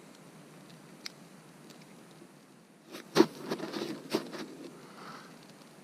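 A fire being lit: a loud sharp click about three seconds in, then a short crackling rush and a second click.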